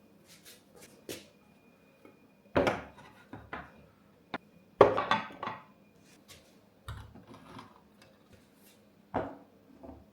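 Dishes and kitchenware being handled and set down: a run of irregular knocks and clatters, the loudest about five seconds in.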